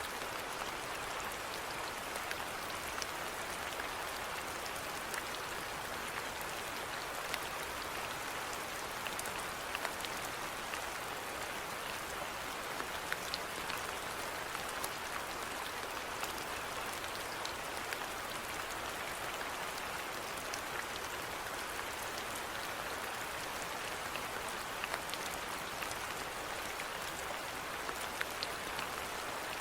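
Steady rainfall, a dense even hiss with scattered individual drops pattering on a surface.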